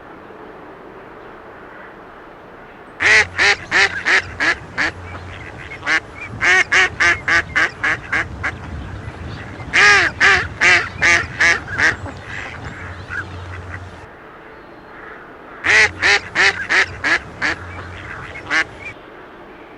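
A duck quacking in four quick runs of calls, several quacks a second in each run, over a low steady hum.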